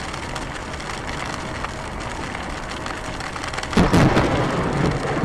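Steady downpour of rain. About four seconds in, a sudden loud thunderclap breaks in and rumbles on, with sharp cracks through it.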